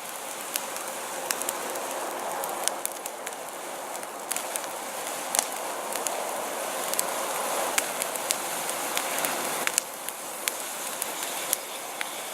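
A fire just lit with a torch and burning up: a steady rushing noise with frequent sharp crackles and pops.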